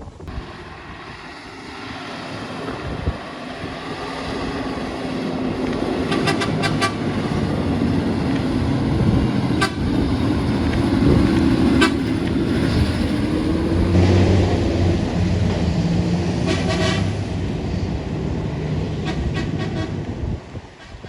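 Heavy truck engine running under load, growing louder as it comes closer and easing off near the end, with several short horn toots.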